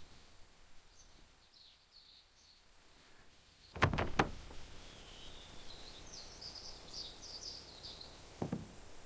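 Small birds chirping in short high calls, busiest in the second half. A quick cluster of about three sharp knocks comes about four seconds in, and a single knock comes near the end.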